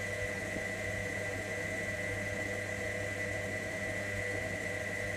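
Electra AWF683 front-loading washing machine's drum motor running steadily, turning the drum in a wash tumble during a boilwash: an even hum with a steady whine over it.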